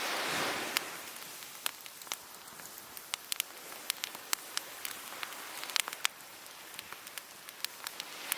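Wood fire crackling, with many sharp pops scattered throughout. A wave washes on the shore at the start, its hiss fading within the first second.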